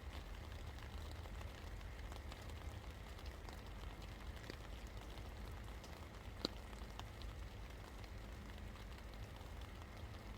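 Steady rain falling, with many scattered drops ticking on a surface and one sharper tap a little past halfway, over a low rumble.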